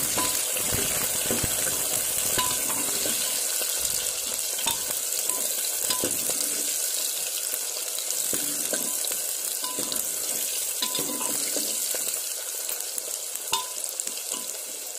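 Chopped onions and green chillies sizzling in hot oil in an aluminium pressure cooker while a steel ladle stirs them, scraping and tapping against the pot now and then. The sizzling grows a little quieter near the end.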